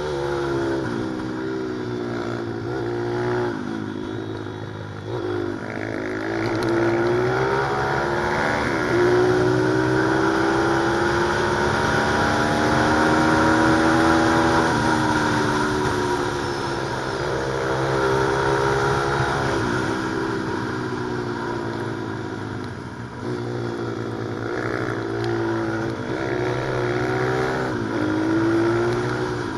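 Pit bike engine being ridden hard, its pitch repeatedly climbing and dropping as the throttle opens and closes.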